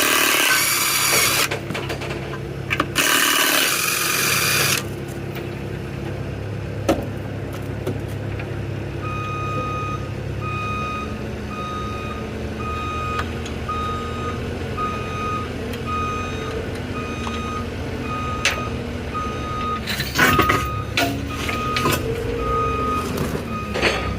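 Vehicle engine running steadily with a reversing alarm beeping, a little over one beep a second, starting about nine seconds in. Two loud bursts of hiss in the first few seconds, and a few clicks and knocks near the end.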